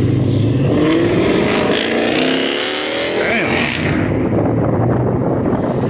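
A car engine revving hard: its pitch climbs for about three seconds, then drops back about three and a half seconds in, and the engine settles into a lower, uneven run.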